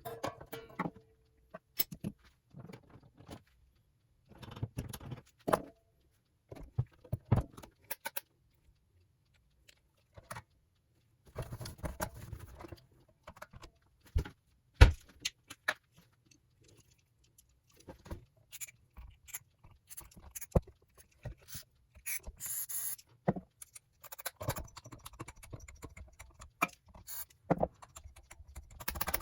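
Irregular clicks, knocks and light metallic clatter of small guitar parts and tools being handled during assembly, with short rustling stretches between, and the loudest single knock about halfway through.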